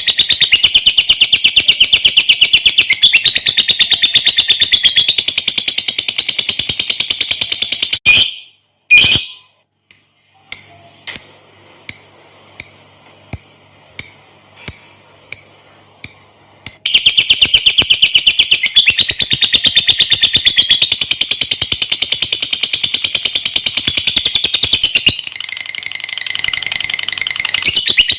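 Lovebird singing its long, rapid, shrill chattering trill (ngekek panjang). About a third of the way in the trill breaks off for a few sharp clicks and a run of single high chirps, about one and a half a second, then the chattering starts up again.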